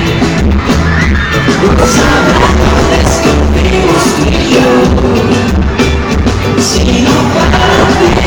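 Live pop band performance played loud, with a sung vocal over heavy bass and drums pulsing in a steady beat.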